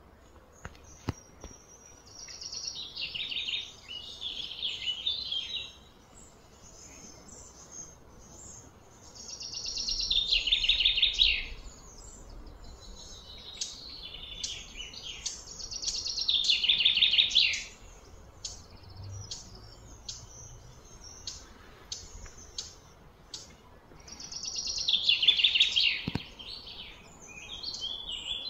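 A songbird singing loud trilled phrases, each about two seconds long and falling in pitch, four times several seconds apart, with short sharp chirps in between.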